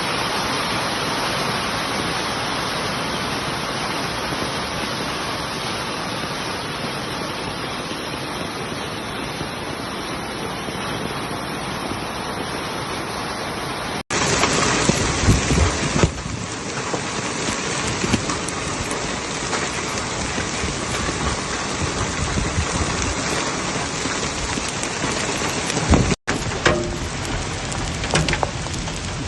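Heavy rain pouring steadily. After a break about halfway through it comes louder, with scattered sharp hits on surfaces, and there is another brief break near the end.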